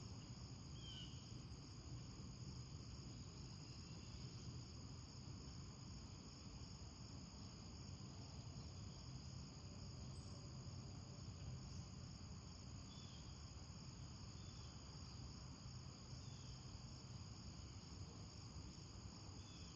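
Faint, steady chirring of crickets, with a few brief higher chirps now and then.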